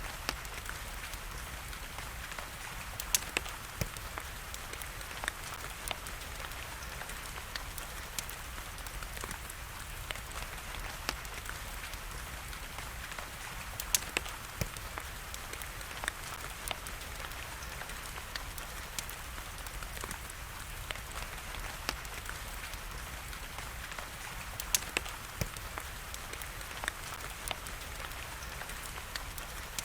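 Steady rain hiss with a wood fire crackling over it, the crackle coming as irregular sharp pops, a few of them standing out louder.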